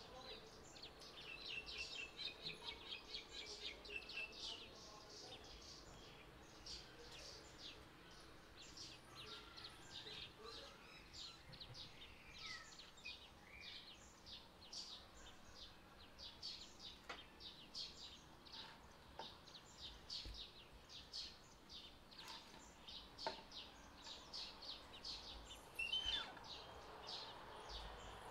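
Faint outdoor birdsong: small birds chirping in quick repeated runs of a few chirps a second, busiest in the first few seconds. A couple of soft clicks, and a short louder noise near the end.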